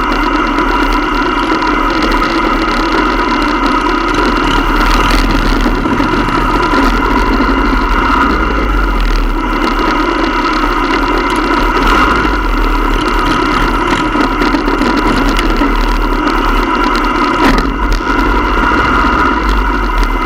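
Motorcycle engines running steadily, a constant drone with no change in pace.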